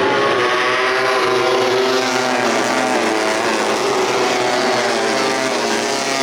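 Tuned 150cc four-stroke underbone race motorcycle engines running hard, their pitch rising and falling.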